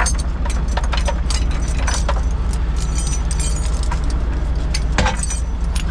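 Strong wind rumbling on a camera microphone despite its wind guard, over a steady diesel engine idle. Scattered sharp metallic clinks and rattles run through it, with a louder clatter about five seconds in.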